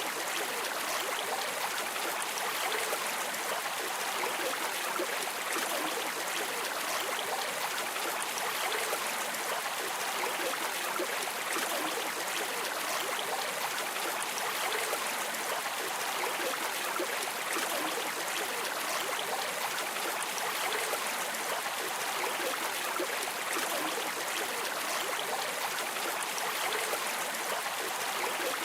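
Steady rush and babble of a flowing river stream, even and unbroken.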